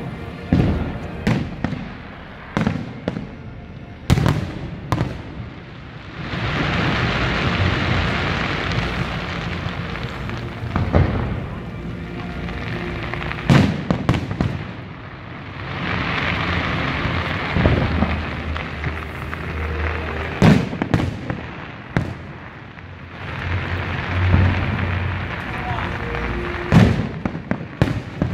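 Fireworks display: sharp bangs of bursting shells scattered throughout, with three long spells of dense crackling.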